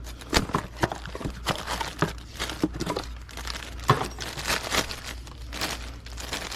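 Packaging crinkling and rustling as a new ignition coil is unwrapped by hand, with irregular rustles and small clicks over a faint steady low hum.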